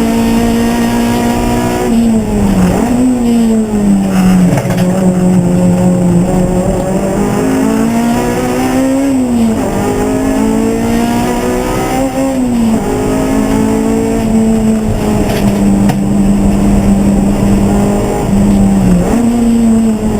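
Racing car engine running hard and continuously. The pitch climbs and then drops abruptly several times, as at gear changes and lifts for corners, with one long stretch held at a steady pitch in the second half.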